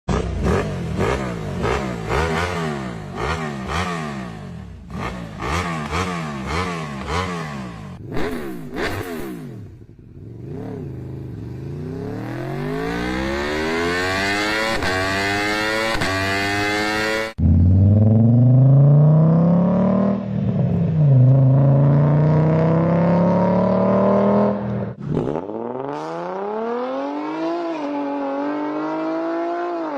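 A series of different V-configuration car and motorcycle engines revving, one clip after another with abrupt cuts. First come quick repeated blips of the throttle, then a long steady climb in revs. After a sudden cut, a louder engine rises and falls in pitch, and near the end another engine starts climbing.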